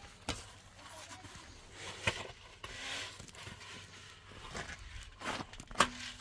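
A few scattered knocks and clicks with some light rustling, the sharpest knock coming near the end.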